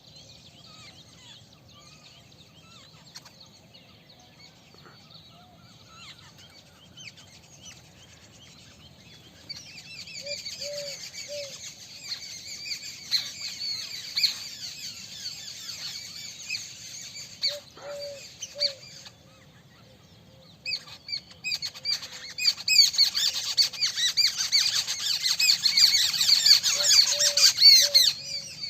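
A flock of small birds chirping densely, many calls overlapping. The chirping grows louder about ten seconds in, dips briefly, then is loudest in the last third. A lower call of three short notes recurs three times.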